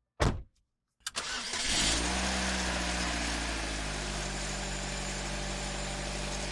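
A short thud, then a Smart car's engine starting about a second in and settling into a steady idle.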